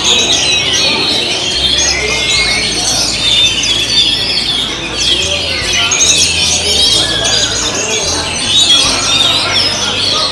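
Many oriental magpie-robins (kacer) singing at once, their fast whistled phrases and harsh notes overlapping without a break.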